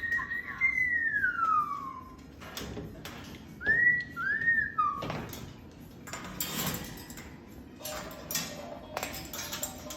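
Whistling: one long whistle sliding down in pitch, then two short rising-and-falling whistles about four seconds in. After that come scattered light clicks and knocks.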